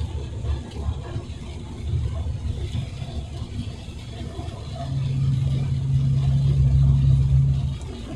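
Truck cab interior while driving: engine and road rumble, with a steadier, louder engine drone from about five seconds in until just before the end.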